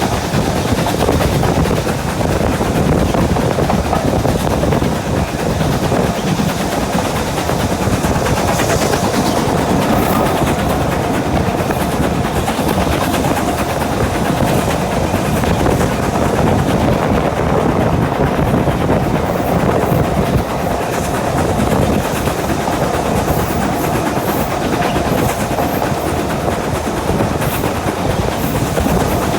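A train running along the line, with steady wheel-on-rail running noise.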